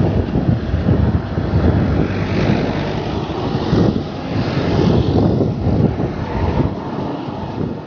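Wind buffeting the microphone during a bike ride along a busy road, with road traffic noise that swells as a vehicle passes about two to five seconds in.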